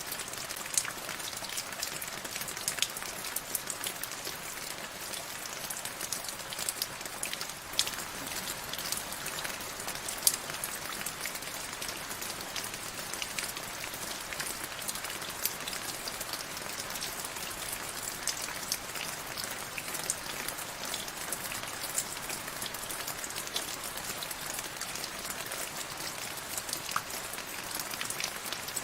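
Steady rain falling, a constant hiss scattered with the sharp ticks of individual drops striking a surface.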